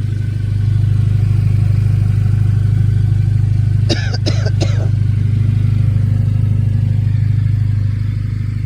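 Audi A4 (B8) engine idling steadily on a cold start. It is loud, and a little louder for most of the stretch before easing back near the end. About four seconds in come three short high-pitched chirps.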